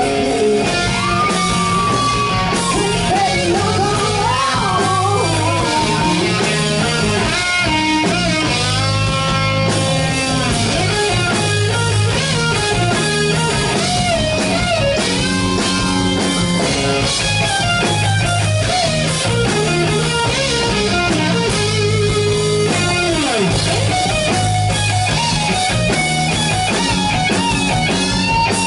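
Rock band playing an instrumental break: a guitar carries a bending, melodic lead line over steady bass and chords.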